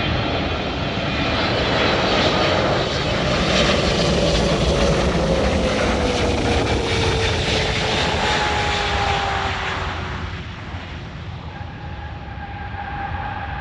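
Jet airliner passing close by: its engine roar swells, holds, then fades after about ten seconds, with a whine that falls steadily in pitch as it goes past.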